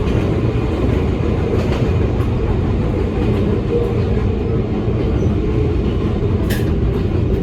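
Electric train running along the track, heard from inside the car: a steady low rumble of wheels and motors on the rails, with a sharp click about six and a half seconds in.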